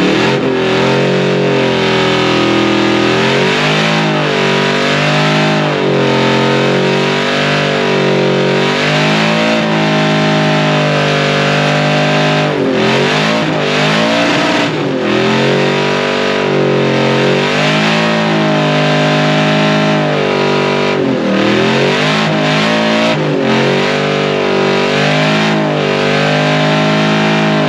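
Supercharged LSA V8 of a 1969 Chevy C10 pickup held at high revs in a burnout, its pitch swinging up and down every couple of seconds as the throttle is worked. It dips briefly twice, about halfway through and again about three quarters of the way through.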